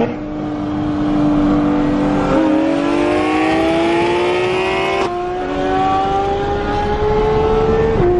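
Porsche 991.2 GT3 RS's naturally aspirated flat-six, fitted with headers and a muffler delete, pulling under acceleration: its pitch climbs steadily. There is a short break about five seconds in and a drop in pitch near the end as it shifts up a gear.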